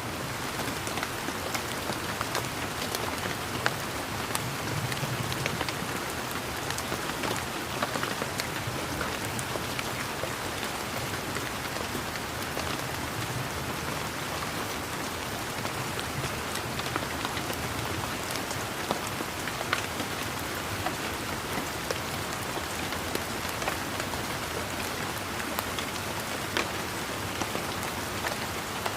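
Steady rain, a continuous even patter with scattered individual drops ticking out louder.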